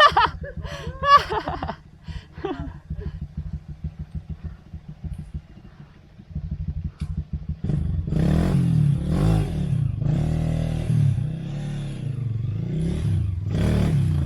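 Motorcycle engine running with a steady low pulse, then louder and revving up and down from about eight seconds in.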